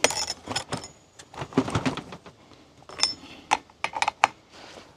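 Irregular clicks and light knocks of a chainsaw's bar and chain being handled by hand.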